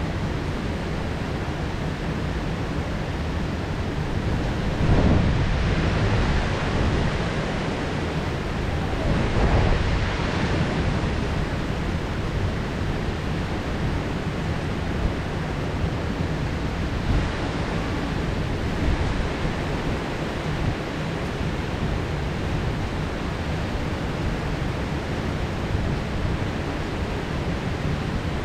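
Heavy rain pouring steadily in a thunderstorm, a dense even hiss. About five and ten seconds in, two louder swells rise and fade.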